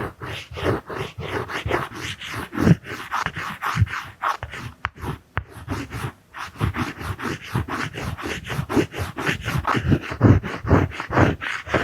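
Rapid, rhythmic scratching strokes of a drawing tool rubbed close against the microphone, about four strokes a second. The strokes start suddenly and keep up an even pace.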